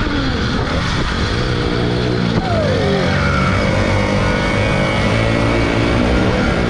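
Two-stroke motorbike engine running steadily under way, with a brief falling tone about two and a half seconds in.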